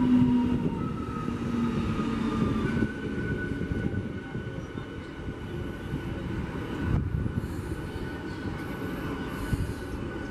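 Electric multiple unit local train running past along the platform, a steady rumble of wheels on rail. Steady whines sound over the rumble for the first three seconds or so.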